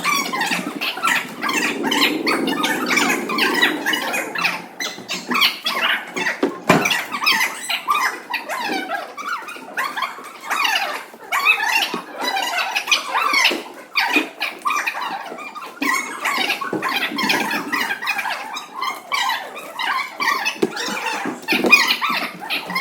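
Many young children's voices chattering and squealing at once, a dense, continuous hubbub of high-pitched calls.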